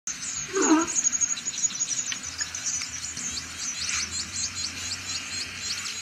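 Many small birds chirping steadily, a dense run of short high chirps, with one brief louder, lower call about half a second in.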